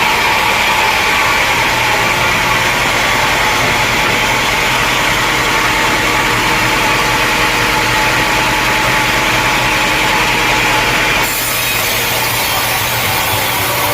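Engine-driven sawmill blade cutting steadily through a log. The sound changes abruptly about eleven seconds in.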